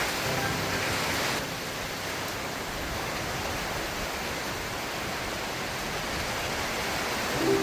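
Steady rain falling with an even hiss, a little heavier for the first second or so. A short humming tone comes in right at the end.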